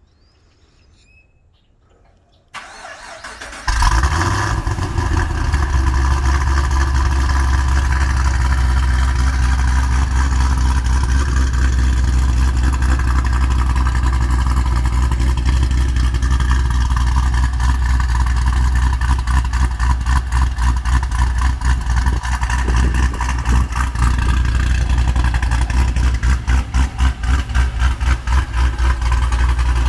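Engine with a Lethal Racing Night Fury aftermarket camshaft cold-starting: it cranks about two and a half seconds in, catches a second later and settles into a loud, steady fast idle. Near the end the idle turns into a choppy, rhythmic lope, the sound of the big cam.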